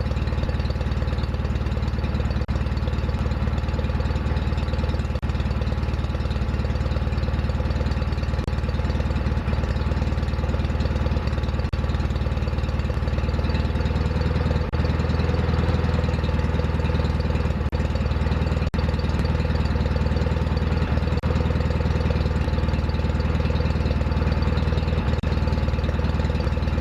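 Small garden-tractor engine idling steadily, a little louder from about halfway through.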